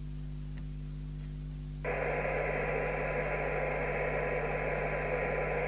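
Low mains hum, then about two seconds in the Mustang CB3000 CB radio's speaker opens abruptly into a steady receiver hiss carrying a thin 1 kHz tone: a weak test signal from the signal generator, modulated with a 1 kHz tone, being received for a sensitivity check.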